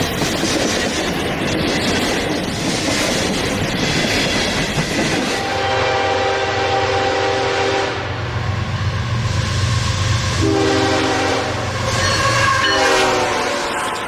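Freight train passing with wheels clattering on the rails, then a locomotive horn sounds three blasts, one long and two shorter, over a low engine hum.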